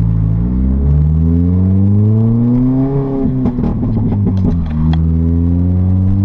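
R53 Mini Cooper S's supercharged 1.6-litre four-cylinder through a straight-piped exhaust with the muffler deleted, rising in pitch as the car accelerates. About three seconds in the note drops and breaks up with a scatter of pops through a gear change, then climbs again in the next gear.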